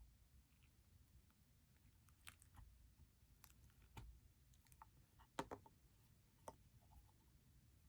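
Faint, scattered sticky clicks and small pops of slime being squished and kneaded by hand, with a short cluster of louder pops about five and a half seconds in.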